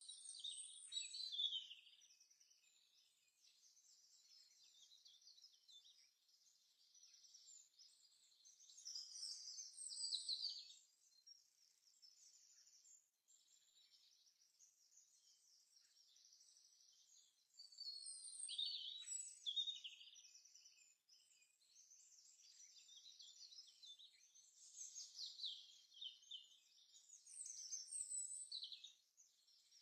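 Small birds chirping and twittering in fast, high calls. The calls come in louder bursts about a second in, around ten seconds, around nineteen seconds and again near the end, with softer chirps between.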